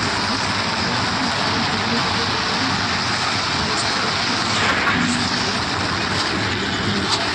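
Steady, dense rumbling noise of a herd of animals stampeding.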